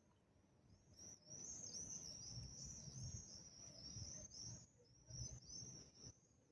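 Small songbird twittering: a fast, faint run of high chirps that starts about a second in and stops near the end, over a faint low rumble.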